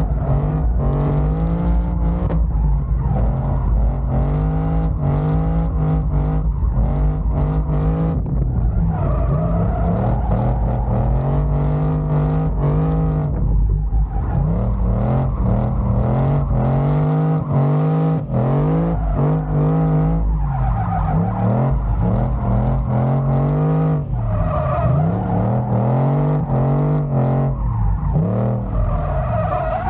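Engine of an engine-swapped BMW car running hard, its revs climbing and dropping over and over every second or two without settling at idle.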